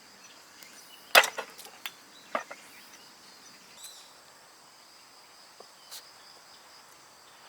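Firewood being split: a sharp woody crack about a second in, the loudest sound, followed by a few smaller cracks and knocks, another strike about two and a half seconds in, and two faint taps later.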